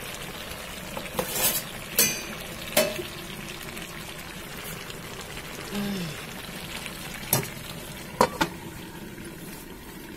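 Chicken leg pieces in masala sizzling and frying in a kadhai over a gas flame. A handful of sharp metal clinks from the utensils and the pan, the last pair as the lid goes on the kadhai.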